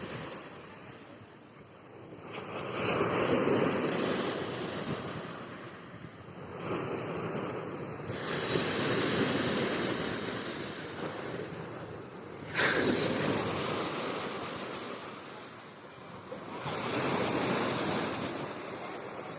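Rough Black Sea surf in a small storm, breaking on the beach: four surges of crashing waves a few seconds apart, the third breaking suddenly.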